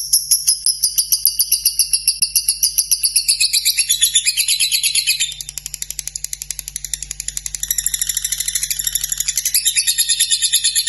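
Lovebird singing a long unbroken ngekek: a fast, even run of high chirps, about seven a second. It drops quieter about five seconds in and builds back up near the end.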